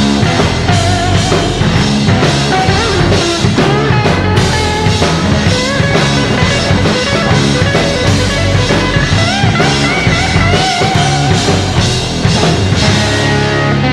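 Rock music: a busy drum kit and electric guitar, with a lead line of bending notes.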